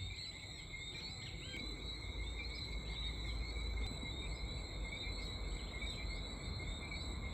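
Steady high-pitched evening chorus of many small chirping creatures, with a low rumble underneath.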